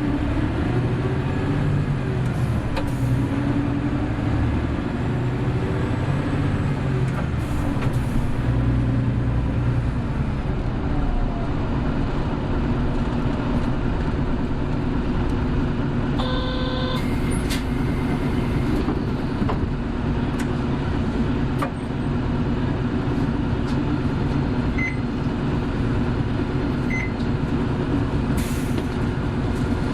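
Hino Blue Ribbon City Hybrid bus engine rising and falling in pitch through the gears for the first ten seconds, then running steadily at cruising speed. A short electronic chime sounds about halfway through.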